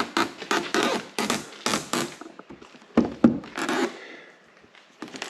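A run of knocks and thunks from a hood protector being pressed and tapped into place against a truck's hood: several light knocks in the first two seconds, then a sharper knock about three seconds in.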